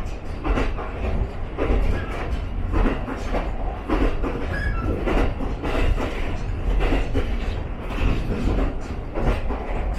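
Ichibata Electric Railway 7000 series railcar running, heard from inside the car: a steady low rumble, with the wheels clacking over rail joints about once a second.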